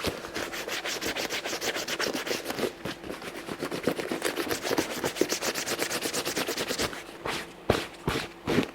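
Dry cloth rubbed briskly back and forth over an oiled leather boot upper, buffing it after oiling: a quick run of rubbing strokes, several a second, with a few louder, more spaced strokes near the end.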